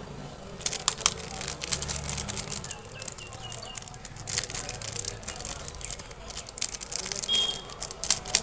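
Plastic candy packaging crinkling and crackling as it is handled and torn open, a dense run of sharp crackles that starts about half a second in.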